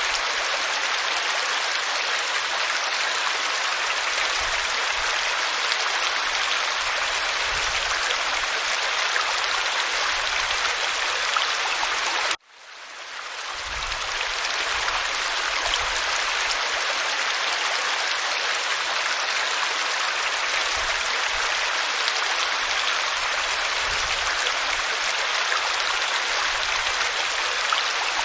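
Steady rushing and splashing of a waterfall pouring onto rock. About twelve seconds in the sound cuts out abruptly and fades back up over a second or two: the seam of a looped recording.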